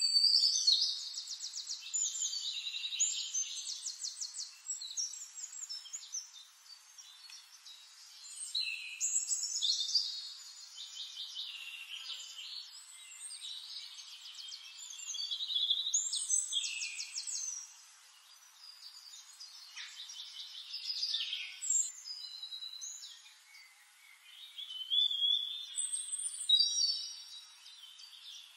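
Songbirds singing: bursts of fast, high-pitched trills repeated every few seconds, with quieter pauses between the phrases.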